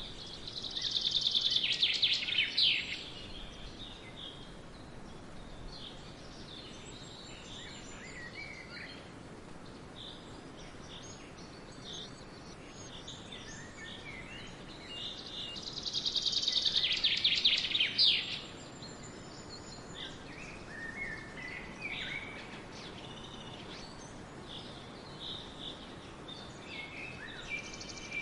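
Songbirds singing: one bird gives a loud, rapid high trill twice, near the start and again about halfway through, each lasting two to three seconds. Quieter chirps from other birds come between the trills over a steady background hiss.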